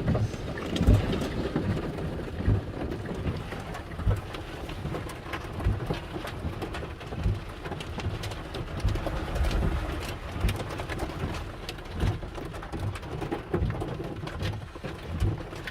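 Heavy thunderstorm rain falling hard, with many sharp drop impacts and irregular low thumps throughout.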